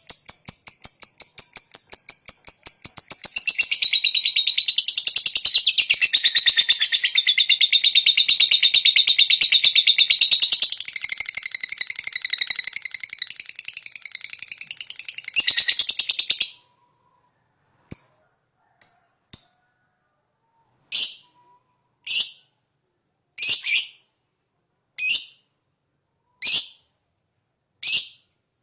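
Lovebird giving a long, rapid chattering trill, the 'ngekek panjang' prized in fighter lovebirds, for about sixteen seconds before it cuts off abruptly. After that come single short, high calls about every second and a half.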